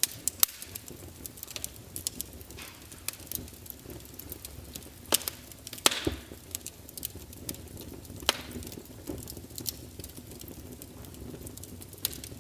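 Burning wood fire crackling, with irregular sharp pops and snaps over a low hiss; the sharpest snaps come about half a second in and again about six seconds in.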